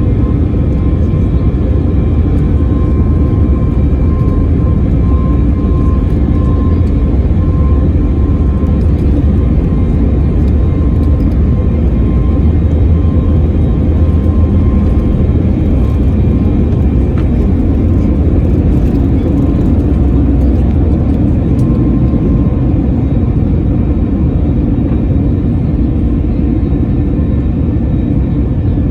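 Airbus A321neo's CFM LEAP-1A turbofans and airflow heard from inside the passenger cabin during departure: a loud, steady low rumble. A thin high tone runs over it and fades out about three-quarters of the way through.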